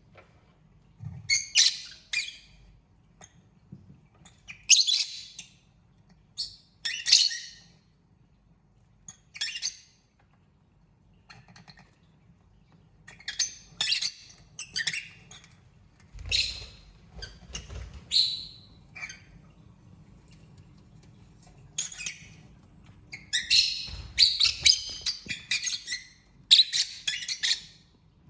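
Lovebirds chirping and squawking in short, shrill bursts of calls separated by brief pauses, busiest in the second half.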